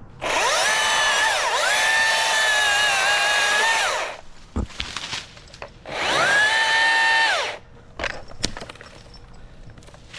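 Cordless electric chainsaw cutting small limbs in two bursts: the motor whines up to speed, runs for a few seconds with a brief dip, and winds down, then runs again briefly a couple of seconds later.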